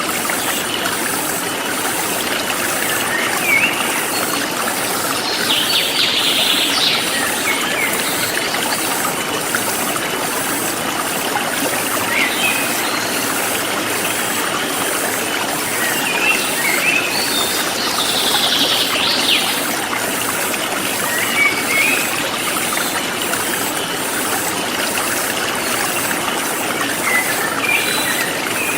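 Forest stream flowing steadily, with birds chirping here and there over the water, including two longer bursts of chirping about a third and two thirds of the way through.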